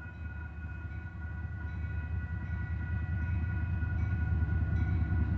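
Approaching Union Pacific diesel locomotives, led by a GE C45ACCTE, with a low engine rumble growing steadily louder, over the steady high ringing of the grade-crossing warning bells.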